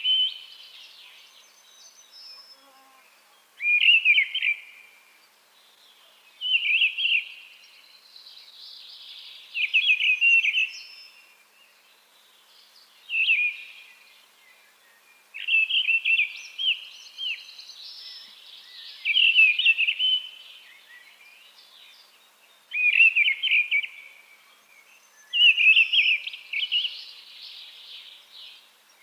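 Mistle thrush singing: short, loud fluting phrases of about a second each, repeated every few seconds with clear pauses between, about nine phrases in all.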